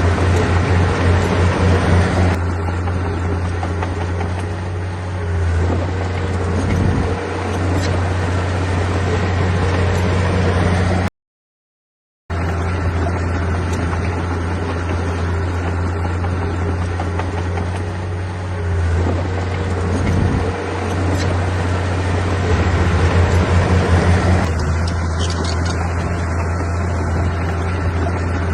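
Diesel engine of a heavy earthmoving machine running, a deep steady drone that swells and eases a little at times. The sound cuts out completely for about a second near the middle.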